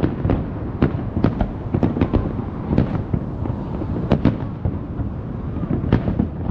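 Aerial fireworks going off in quick, irregular succession: sharp bangs, several a second, over a continuous low rumble.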